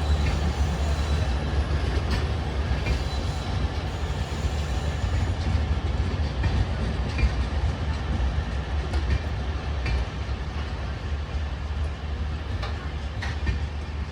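Indian Railways passenger train running: a steady low rumble of the coaches on the track, with scattered light clicks of the wheels.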